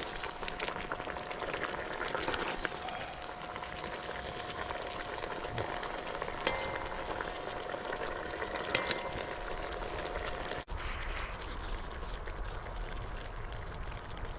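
Pot of stewing cured pork ribs bubbling and fizzing steadily over a wood fire, with two sharp metal clinks as soup is ladled out. The sound cuts off abruptly about two-thirds through and goes on lower and duller.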